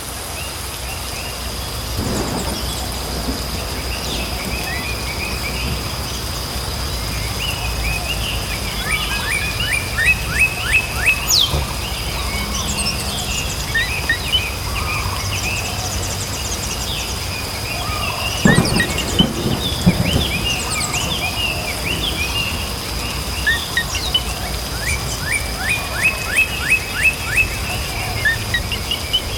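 Steady rain with songbirds chirping and trilling over it. Low rumbles of thunder come about two seconds in and again near the middle.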